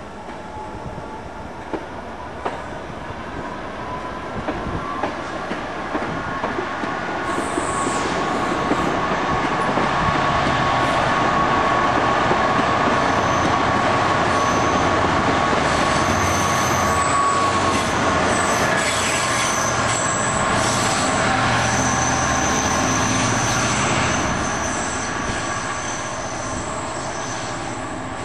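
Passenger train moving along the platform and away, with wheels squealing on the rails in a slowly rising pitch and clicks over rail joints. The sound grows louder over the first ten seconds, holds, then fades from about 24 seconds in as the train draws off.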